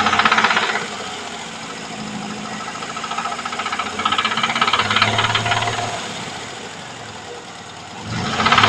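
VAZ-2103 four-cylinder petrol engine running and being revved three times, once at the start, once in the middle and once near the end, with a rapid knock in the engine.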